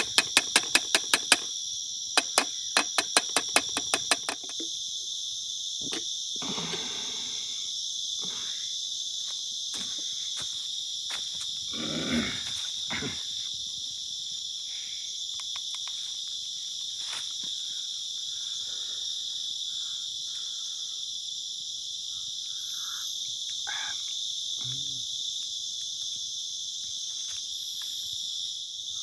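Night insect chorus of crickets and other insects, a steady high-pitched shrilling. For the first four seconds it carries a fast run of sharp clicks, several a second. After that come a few faint scattered knocks and rustles.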